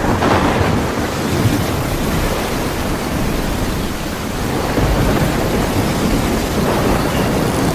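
Heavy rain hissing steadily, with low thunder rumbling underneath and swelling about five seconds in. The rain starts abruptly at the outset.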